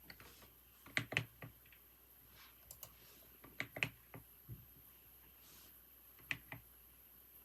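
Typing on a computer keyboard: sparse keystrokes in four short bursts of two to five clicks, with pauses between.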